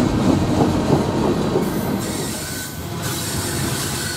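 Freight train tank cars rolling past on a curve, steel wheels clicking over the rail joints, with flange squeal from the wheels in the curve. The sound changes abruptly about halfway through.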